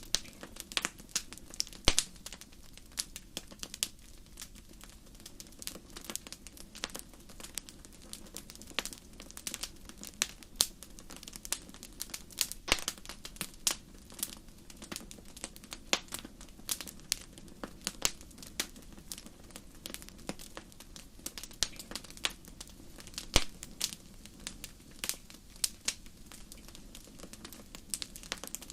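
Wood fire crackling in a fireplace: irregular sharp pops and snaps of varying loudness over a soft steady hiss.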